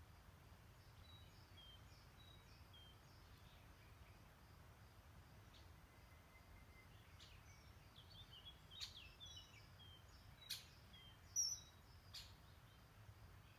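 Faint songbirds chirping: scattered short high notes in the first seconds, then a run of sharper, louder calls in the second half, the loudest about two-thirds of the way through. A steady low background hiss lies under them.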